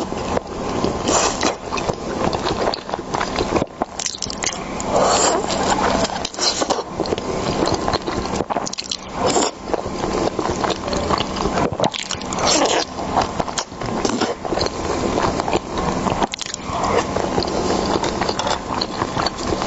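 Close-miked eating of raw seafood sashimi: wet biting and chewing with many small mouth clicks and smacks throughout.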